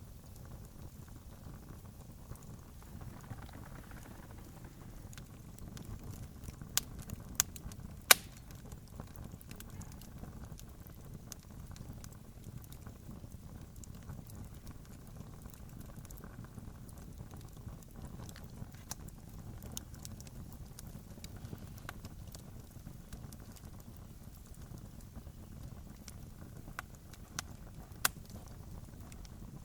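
Campfire crackling: scattered sharp pops and snaps of burning wood over a low steady rumble, with the loudest snap about eight seconds in.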